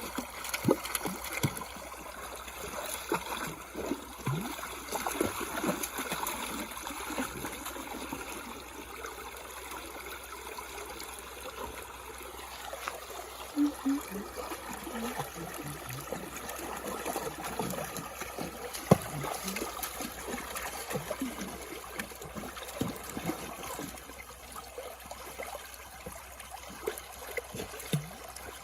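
Water trickling and flowing steadily, with many small scattered clicks and knocks over it.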